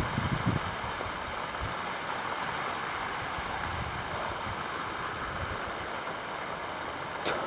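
Heavy rain pouring down steadily, with a single sharp knock near the end.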